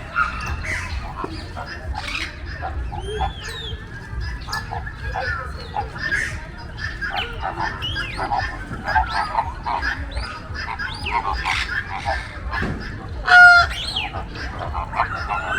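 Many captive birds of mixed kinds calling at once, a dense chorus of chirps, squeaks and honking calls. One loud, pitched call stands out about thirteen seconds in.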